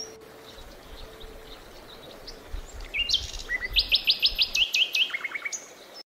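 A songbird singing: a fast run of quick, high downward-slurred notes from about three seconds in, followed by a lower rapid series of notes, cutting off suddenly at the end. At the start, the last note of the piano music dies away.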